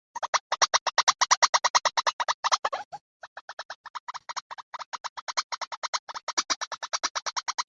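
White-breasted waterhen lure call: a fast, even series of short, harsh notes, about nine a second, with a brief break about three seconds in. This is a bird-trapping lure track meant to draw waterhens in.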